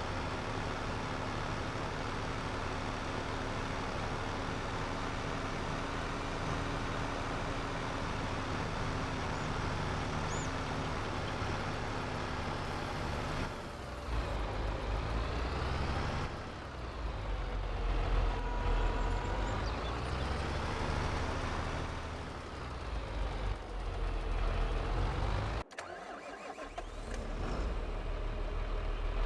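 Tractor engine running steadily under load. After about fourteen seconds a heavy low rumble joins it and the sound swells and sweeps. A sudden break comes near the end.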